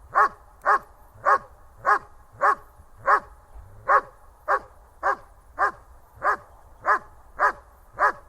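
German Shepherd barking over and over at a steady, fast pace, about fourteen short barks, one every half second or so.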